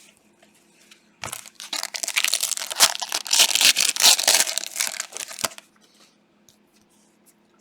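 Plastic-foil trading card pack wrapper torn open and crinkled. A dense crackling starts about a second in and lasts about four seconds before it stops.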